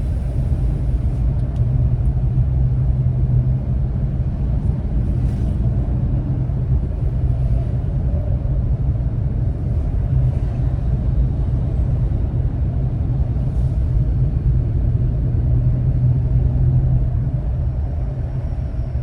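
Steady low rumble of a vehicle creeping in slow traffic: engine and road noise. A few faint, brief hisses sound over it.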